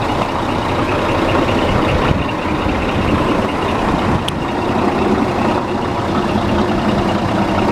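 2007 Scania P380 tipper truck's diesel engine running steadily, with one faint click about four seconds in.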